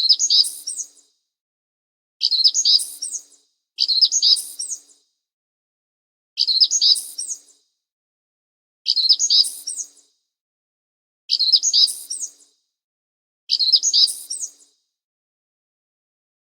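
A bird singing a short phrase of quick, high chirps about a second long. The same phrase repeats seven times, every two to two and a half seconds, with dead silence between.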